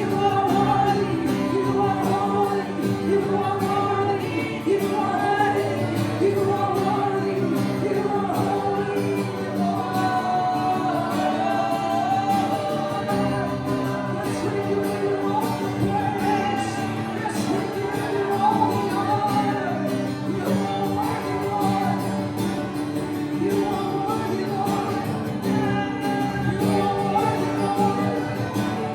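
Live praise-and-worship music: singing over instrumental accompaniment, continuous and steady in level.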